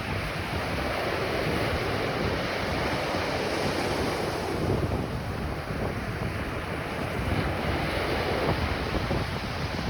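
Ocean surf washing onto a beach: a steady, continuous rush of waves with no single break standing out, and wind rumbling against the microphone.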